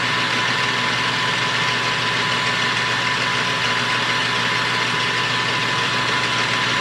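Metal lathe running steadily, its spindle drive and gearing making a constant mechanical hum with a high steady whine.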